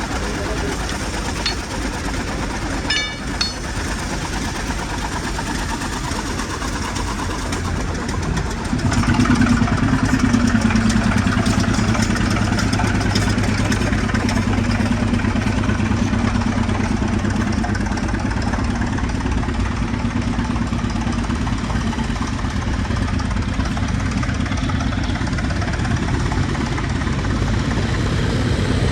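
Old air compressor's engine running steadily. About eight seconds in it gets louder and a deeper, steadier hum sets in, as if the machine takes on load.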